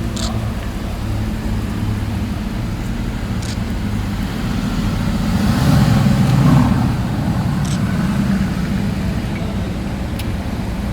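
Supercar engine running at low revs with a deep exhaust rumble that swells a little past halfway through, then eases back.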